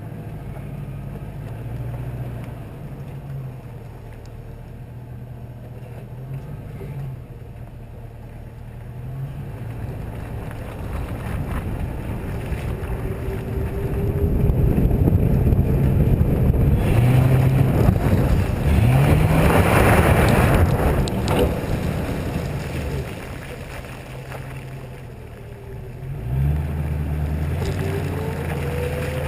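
Lincoln Town Car's V8 engine revving up and down as the car slides in snow, with a loud rush of wind and tyre noise over the microphone in the middle.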